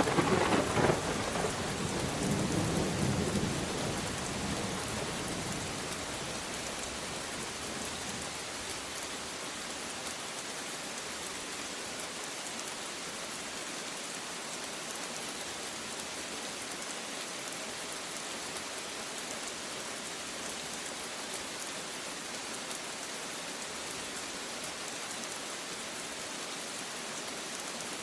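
Steady rain falling, with a clap of thunder at the start that rumbles on and fades over about five seconds.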